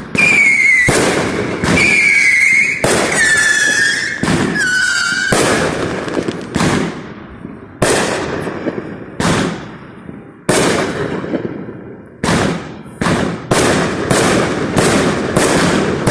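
Consumer firework cake firing shot after shot. The first several shots carry high whistles that fall slightly in pitch. After that come sharp bangs about a second apart, quickening to about two a second near the end.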